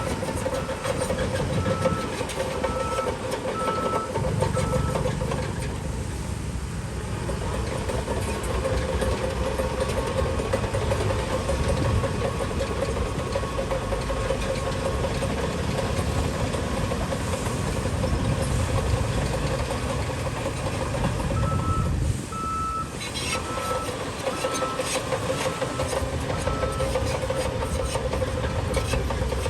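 Heavy diesel earthmoving machinery running steadily, with a reversing alarm beeping in an even rhythm at the start and again in the last third.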